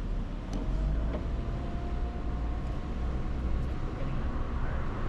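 Vehicle engine and road noise heard from inside the cabin: a steady low rumble.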